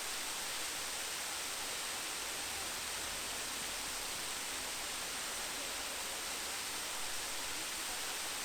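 Steady rushing of a waterfall, falling water making an even hiss with no changes.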